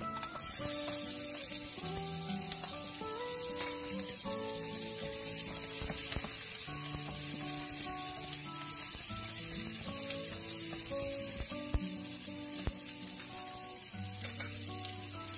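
Chopped onions sizzling in hot oil with garlic and ginger in a nonstick frying pan as they are stirred, with a few light knocks. Soft background music plays underneath.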